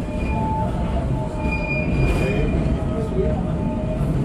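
Tramway du Mont Blanc electric train running on street track: a steady low rumble with thin, high wheel squeals that come and go as it takes the curve.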